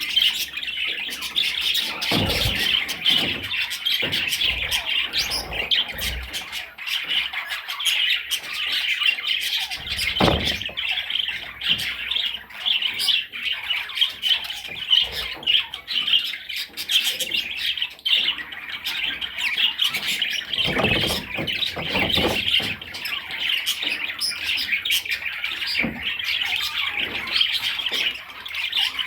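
Budgerigar warbling and chattering without pause, a dense run of fast chirps and squawks, with a few soft low thuds now and then.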